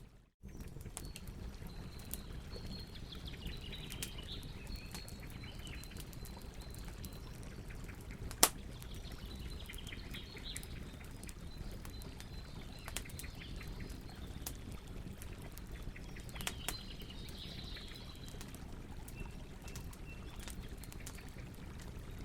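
Campfire crackling, with many small snaps and one loud pop about eight seconds in, over a steady low rumble of flames. Birds chirp in the background now and then. The sound cuts out for a split second right at the start.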